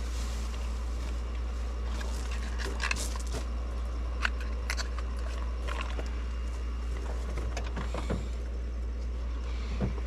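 A handful of light, sharp clicks and taps from handling spark plugs and hand tools during a spark plug change, over a steady low rumble.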